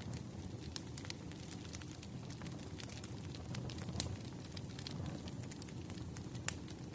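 Wood fire crackling: irregular sharp pops and snaps over a steady low rumble of burning logs, with a louder pop about six and a half seconds in.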